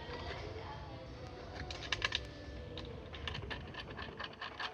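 Small metal clicks and rattles of a half-moon-head bolt and nut being fitted and hand-threaded into a bed frame's bracket, in irregular clusters.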